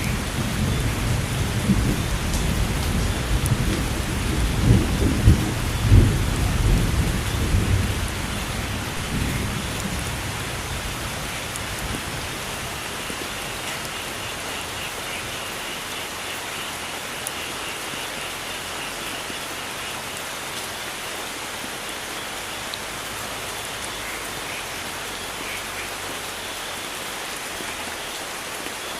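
Steady rain falling, with thunder rumbling through roughly the first ten seconds and then dying away, leaving only the even hiss of the rain.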